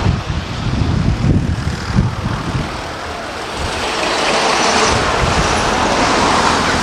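Cars going by: engine and road noise, with uneven low rumbling at first, then a steadier noise that grows louder from about four seconds in.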